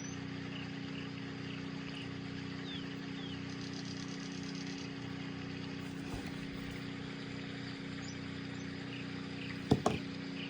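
Steady low background hum with several constant tones, and two short sharp taps close together near the end.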